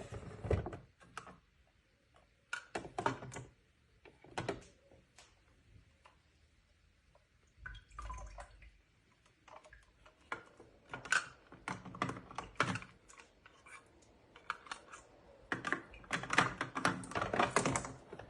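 Irregular clicks and knocks of small hard objects being handled, with quiet gaps between them and a busier run of clicks near the end.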